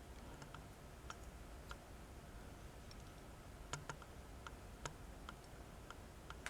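Faint, irregular light clicks and taps from a small metal toy tractor being handled, about ten scattered through, a couple in quick pairs.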